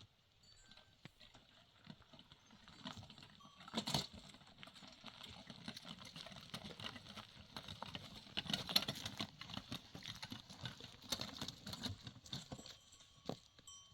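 A flock of goats and sheep on the move, a dense irregular patter of many small hooves clicking over stony ground.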